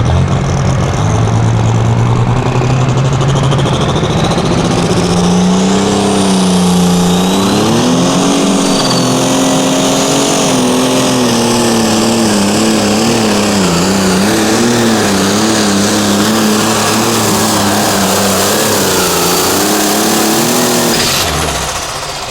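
Diesel pulling tractor's engine at full power under load during a pull. The pitch climbs over the first several seconds, then wavers up and down as the load changes, and the engine drops off sharply about 21 seconds in as the run ends.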